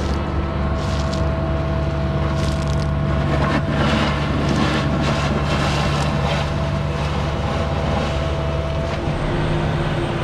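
Diesel engine of a concrete mixer truck running steadily, with scattered knocks and rattles over it. Its note eases off about nine seconds in.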